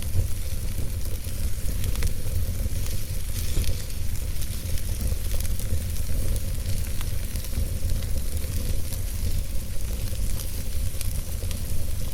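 Campfire burning, with a constant hiss and many small, irregular crackles and pops from the burning wood over a steady low rumble.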